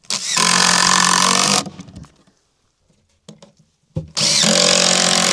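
Cordless drill driving screws into wood: two runs of a steady motor whine of about a second and a half each, the second starting about four seconds in.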